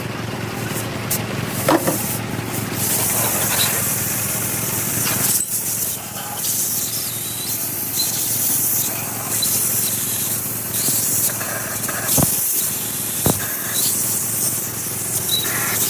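A steady hiss of spray over a low steady hum, with a few scattered clicks and knocks.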